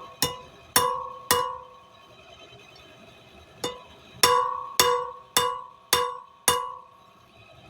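Hand hammer striking a small bar of steel on an anvil in forging, each blow ringing. Three blows, a pause of about two seconds, a light tap, then five more blows at about two a second.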